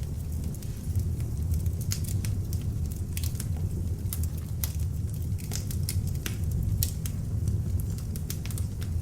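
Beech-wood log fire burning in an open fireplace: a steady low rumble of the flames with frequent sharp, irregular crackles and pops from the burning wood.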